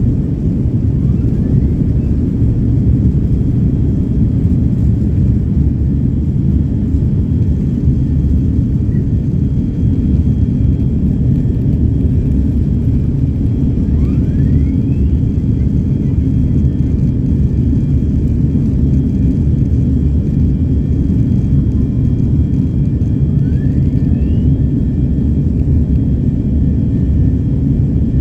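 Steady low rumble of a twin-aisle jet airliner heard from inside the passenger cabin: engine and airflow noise. Twice, about halfway and near the end, a faint short rising whistle.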